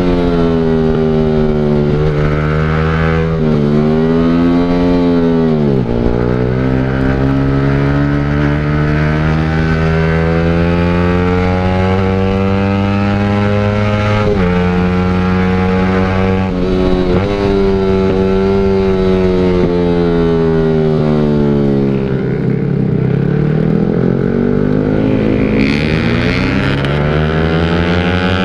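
Motorcycle with an aftermarket exhaust, riding with the engine note climbing and falling. The pitch drops sharply twice, about 5 seconds in and again about 23 seconds in.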